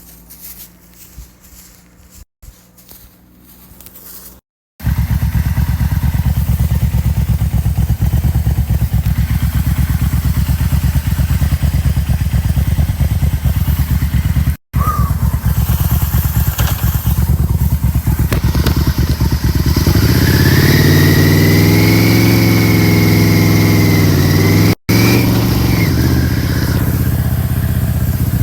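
Yamaha motorcycle engine running loud and steady under way, with a rapid, even beat of exhaust pulses. About two-thirds of the way in, the engine note climbs as the bike accelerates, then drops back. The first few seconds are much quieter, with only a faint low hum before the loud engine cuts in.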